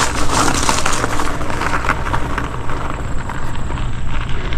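Wind rumbling on the microphone, with many scattered crunches and clicks as the mountain bike rolls over rough, loose ground.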